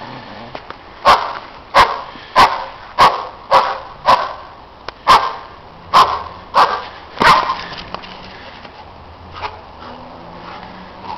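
A dog barking repeatedly, about nine sharp barks at a steady pace of roughly one every half second or so, stopping about seven seconds in.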